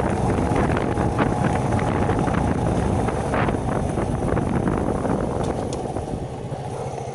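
Shineray 50cc motorcycle engine running on the move, with wind buffeting the microphone and a few brief knocks. The engine and wind get quieter near the end.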